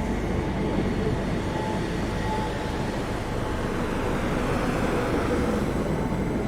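Train running past on the line, a steady rumble and rail noise at an even level.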